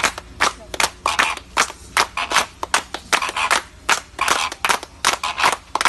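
Hands clapping sharply and irregularly, several claps a second.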